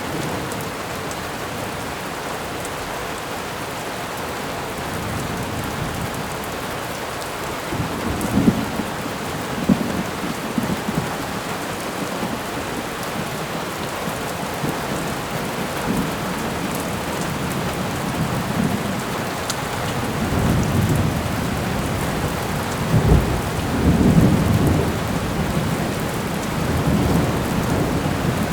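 Thunderstorm ambience: steady rain with thunder rumbling, once about a quarter of the way in and again in a longer roll near the end.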